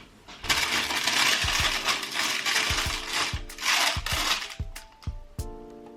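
Loud, dense metallic rattling and jingling for about four seconds, over background music. The music then carries on alone with plucked notes and light taps.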